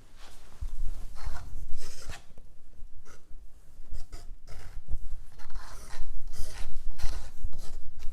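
A brush scraping back and forth over a painting board, spreading a white acrylic base coat in irregular strokes, with low bumps from the board being handled.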